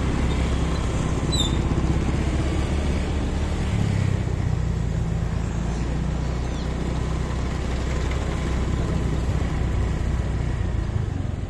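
Motorcycle engine running at low speed in slow, congested traffic, heard from the rider's seat, with other motorbikes and cars around it. Its note rises a little about four seconds in.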